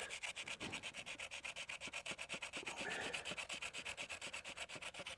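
Distributor breaker points being sanded clean by hand: fast, even rubbing strokes, about a dozen a second. The points are being cleaned because dirty points are suspected of stopping the spark.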